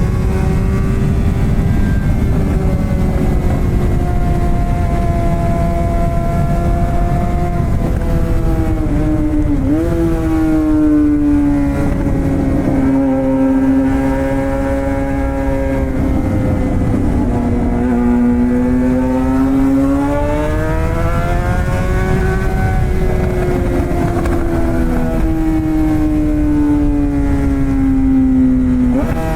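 Suzuki GSX-R600 K7 inline-four running through a straight-piped M4 exhaust with no catalytic converter, heard from the rider's position while cruising. The engine note wanders up and down with the throttle, dips and picks up quickly about ten seconds in, and rises sharply near the end, over a steady rush of low noise.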